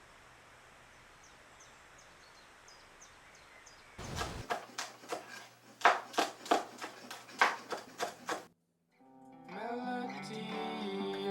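Faint hiss, then about a dozen sharp knocks over four seconds, irregular and loud. After a brief cut to silence, guitar music begins near the end.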